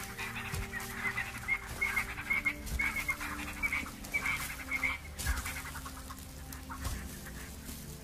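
Birds chattering in runs of rapid, clucking calls, strongest in the first half, over faint low held tones.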